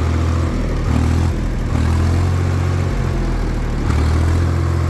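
Tractor's diesel engine running with a steady, loud low drone that wavers slightly a few times.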